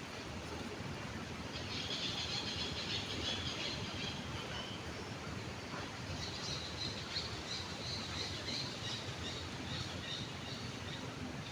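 Birds chirping over a steady rush of flowing stream water. The chirping comes in two spells, one from about two seconds in and a longer one from about six seconds in.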